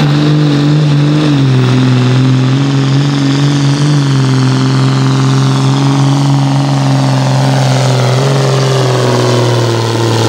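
A John Deere hot farm pulling tractor's turbocharged diesel engine running hard at full power under load. Its pitch sags slightly about a second in and again near the end, with a high whine that slowly falls in pitch.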